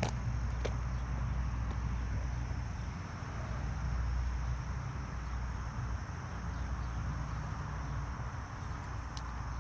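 Steady background noise: a low rumble under an even hiss, with a couple of sharp clicks about a second in and another near the end.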